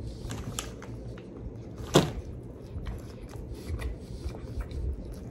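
A person chewing a mouthful of sauce-coated orange chicken, with small wet clicks and smacks and one sharper click about two seconds in.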